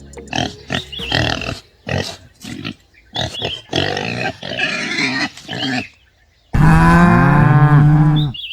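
Pigs grunting and squealing in short, irregular bursts. About two-thirds of the way in, a cow gives one long, loud moo.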